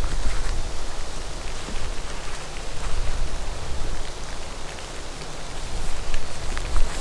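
Rain falling steadily, with a few sharper drop ticks near the end, over a low fluctuating rumble.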